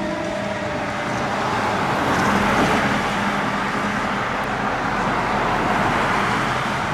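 Fire truck driving past, its engine and tyre noise swelling about two seconds in and holding steady.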